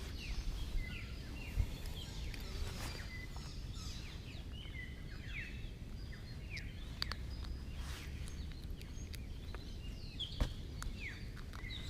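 Birds calling with many short, falling chirps scattered throughout, over a steady low outdoor rumble, with a few soft clicks.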